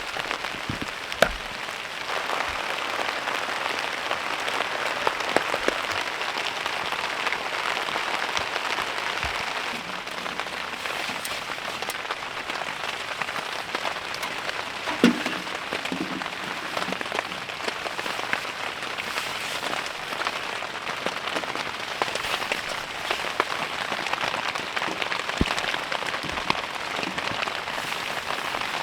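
Steady rain pattering on a surface, with scattered sharper drop clicks. A single knock sounds about a second in and a dull thump about fifteen seconds in.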